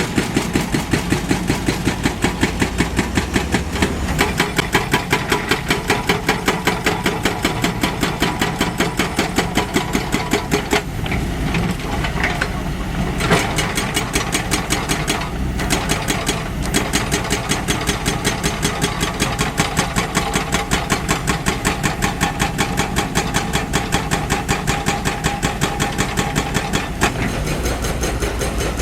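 Diesel engine of a heavy earthmoving machine running, with a steady rapid pulsing of about five beats a second.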